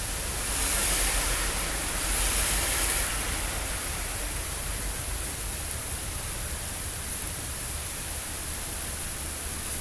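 Heavy rain pouring down in a steady hiss, swelling louder for a couple of seconds near the start.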